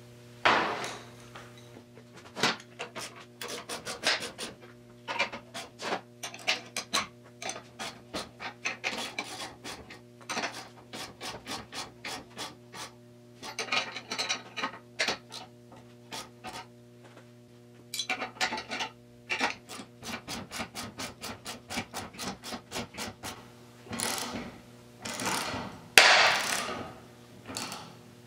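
Hand tool worked in runs of short rasping strokes, a few a second, as a bearing separator is tightened to pull the rear axle bearing, with a few longer, louder scrapes near the end. A steady low hum runs underneath.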